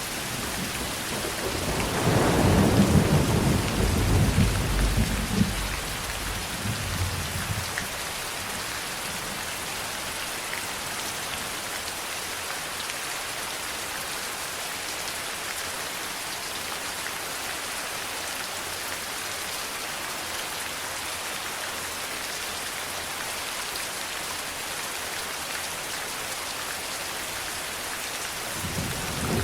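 Steady rain falling, with a roll of thunder rumbling low and loud for several seconds near the start and fading away. Another rumble of thunder begins near the end.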